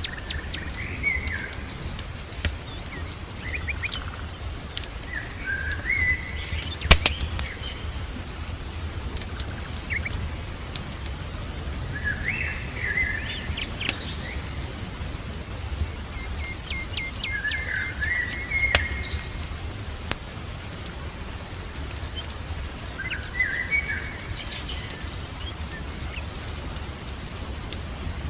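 Birds singing short chirping phrases that recur every few seconds, over the crackle and sharp pops of a wood fire, with the loudest pop about seven seconds in. A steady low rumble sits underneath.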